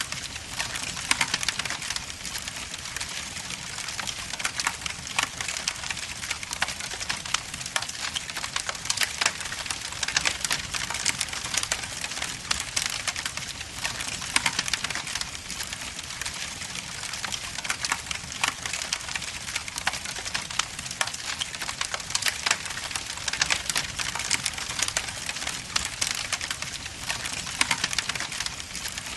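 Wood logs burning in a fireplace, crackling continuously with many small snaps and scattered louder pops.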